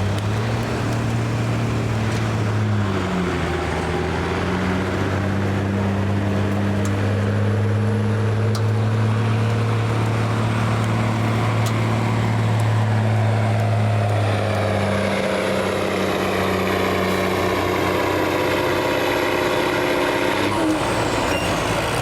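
A pulling truck or tractor's engine running hard under load through a pull, with a steady note that shifts higher about two-thirds of the way through and a faint high whistle above it. The engine note drops away near the end.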